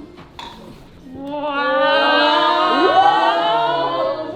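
Several women's voices together in a long, drawn-out "aww" of delight, with one voice sliding upward partway through.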